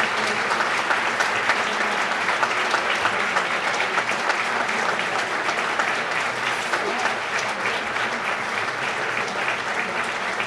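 Sustained applause from a large banquet audience, many hands clapping steadily and easing off slightly toward the end.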